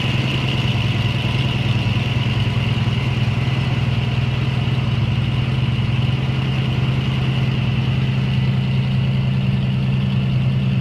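1972 AMC Javelin's engine idling steadily, warming up after a cold start from a month and a half of sitting.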